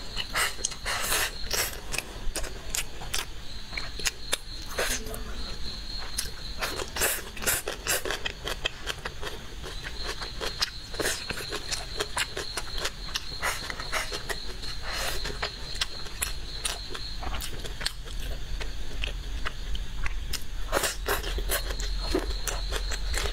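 Close-up eating sounds: chewing and wet lip-smacking, many short irregular smacks and clicks, as braised meat and a runny-yolk salted duck egg are eaten. A thin high steady whine comes and goes in the background.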